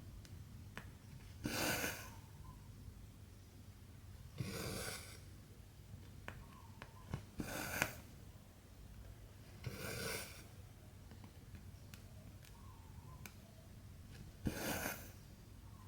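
Cotton embroidery thread being pulled through 14-count cross-stitch fabric: a soft swish every two to three seconds, five in all, with a few faint clicks between.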